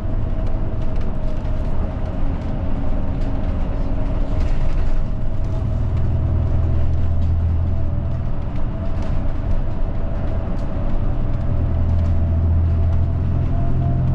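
Route bus engine and road noise heard from inside the cabin while driving, with a steady whine over them. The low engine hum swells twice, about six and about twelve seconds in.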